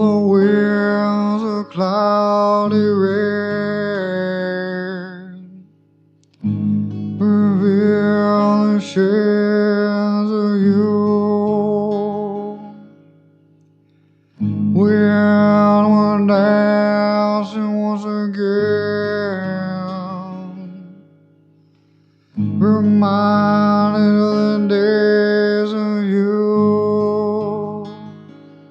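Acoustic guitar playing an instrumental intro: four phrases, each starting sharply and then ringing out and fading away before the next begins.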